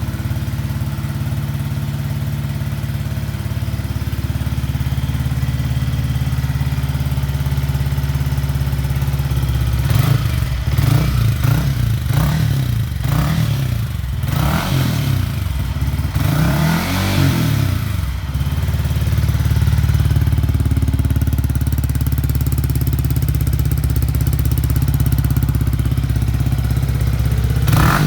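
Yamaha XSR155's single-cylinder engine running through a Yoshimura aftermarket exhaust: idling steadily, then blipped several times in a row from about ten seconds in, each rev rising and falling, before settling back to idle for the rest.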